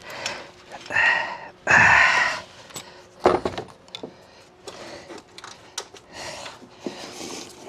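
Hand tools and small metal car parts clinking and rattling during work under a car, with two short rasps about one and two seconds in and a sharp metallic click a little past three seconds.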